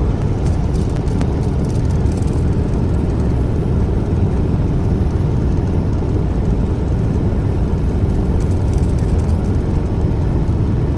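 Semi truck driving at highway speed: a steady, loud low rumble of engine and road noise.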